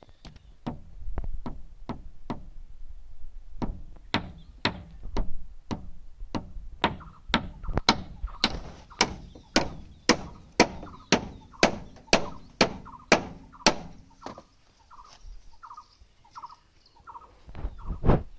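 A long run of sharp knocks or strikes, speeding up to about two a second and lasting some ten seconds, followed by a few short squeaks.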